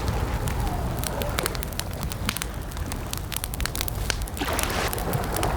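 Campfire crackling, with frequent sharp pops and snaps of burning wood over a low, steady rumble of the flames.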